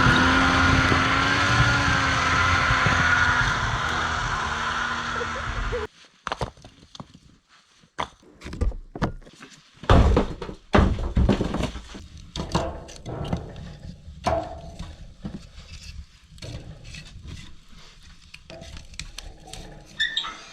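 An engine running steadily that cuts off about six seconds in, followed by a string of irregular knocks, thuds and cracks.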